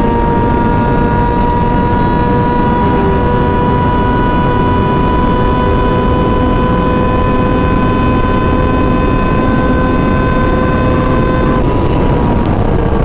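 Sport motorcycle engine held at steady high revs while riding, its pitch creeping slowly upward, then dropping near the end as it slows, over a constant rush of wind noise.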